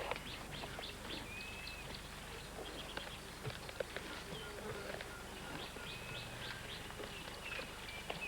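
Birds calling with short repeated chirps, over quiet outdoor background with scattered faint clicks and rustles.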